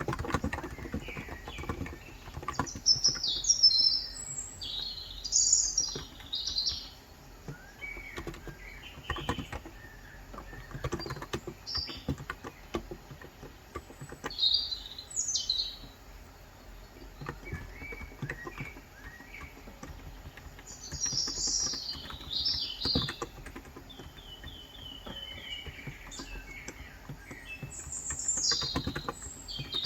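Small birds chirping and twittering in short bursts every few seconds, one of them a quick run of repeated notes. Under them come scattered keystrokes on an electrostatic capacitive keyboard with light 35 g switches, a Cox Endeavour tenkeyless.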